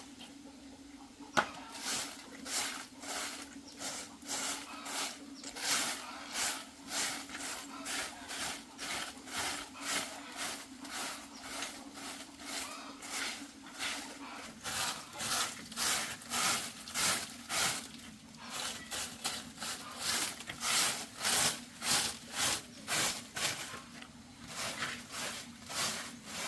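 Hand saw cutting through wood in steady back-and-forth strokes, about two a second, with a sharp knock just before the sawing starts.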